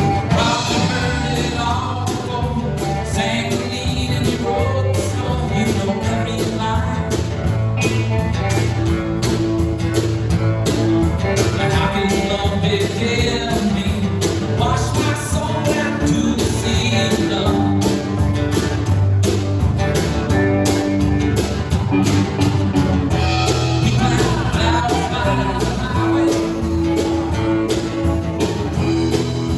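A band playing an upbeat rock-and-roll song with a country feel: guitar, bass and a steady drum beat, with a singer's voice coming in over them at times.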